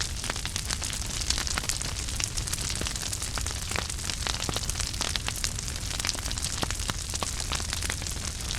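Wood fire burning in a fireplace: a steady low rumble and hiss of flames with many small, irregular crackles and pops.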